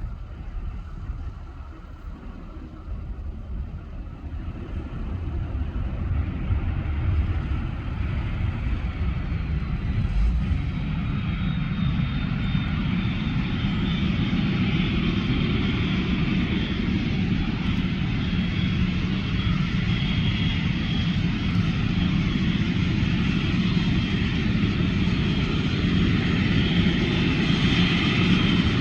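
Jet airliner engines, a steady rumble with a high whine, growing louder over the first several seconds and then holding strong.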